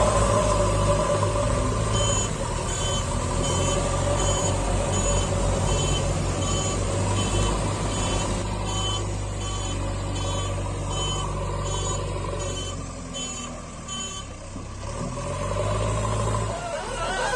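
Reversing-alarm beeps, short high beeps repeating about twice a second, over a steady low engine-like hum.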